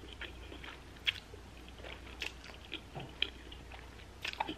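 Close-miked chewing of a mouthful from a pork bulgogi bowl, with irregular wet mouth clicks and smacks. There is a lip smack near the end.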